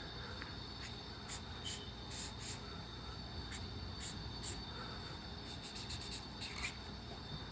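Alcohol markers stroking across paper: short, scratchy, high-pitched strokes at irregular intervals, with a quicker run of strokes about six seconds in, over a steady faint high-pitched tone.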